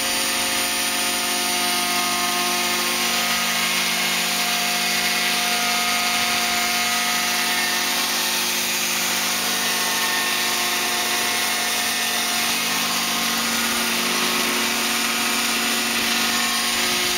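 Small model-aircraft engine running steadily at one pitch, over a strong rushing hiss of wind.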